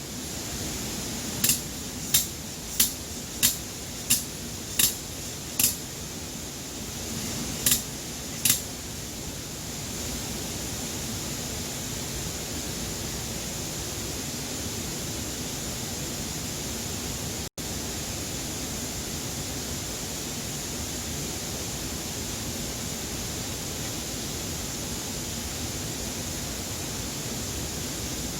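Steady rushing hiss with about nine sharp clicks spread over the first eight or so seconds.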